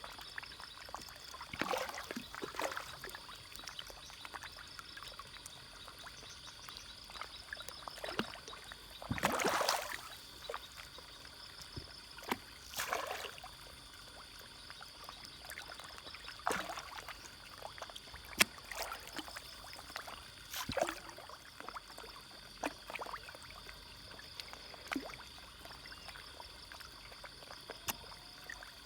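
Fish splashing and slurping at the surface of a pond as they take feed: irregular short plops and splashes every few seconds, the biggest about nine seconds in, over a steady high-pitched hum.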